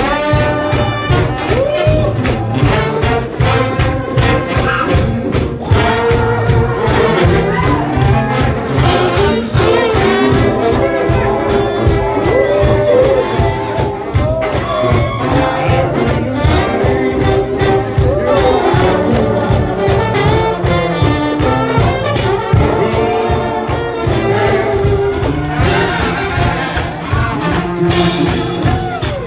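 Gospel brass shout band playing an up-tempo tune, with a tambourine shaken and struck on a fast, driving beat.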